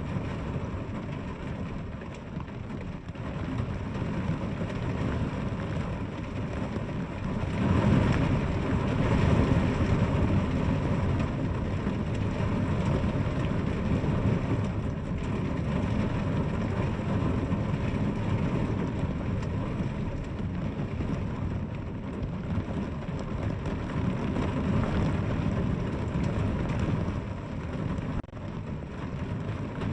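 Steady rain, a dense rushing noise heavy in the low end, swelling louder about eight seconds in and easing back.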